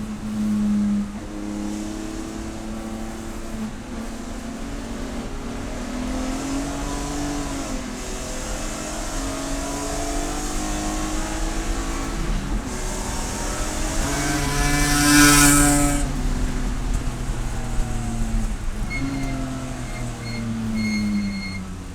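Race car engine at racing speed, its revs climbing and dropping again and again through gear changes as it accelerates and brakes, with a loud rushing swell about two-thirds of the way through. A few short, high beeps sound near the end.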